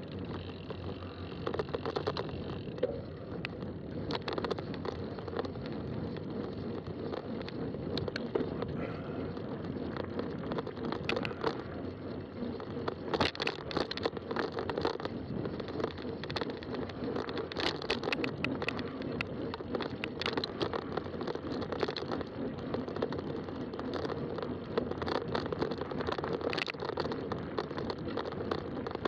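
Fat-tire bicycle being ridden along a trail: a steady rumble of the wide tyres on the ground, with scattered sharp clicks and rattles from the bike.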